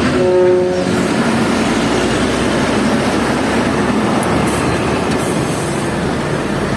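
Hino FL 260 JT truck's diesel engine running under a heavy load, with dense steady road and running noise. A brief pitched tone sounds for about half a second near the start.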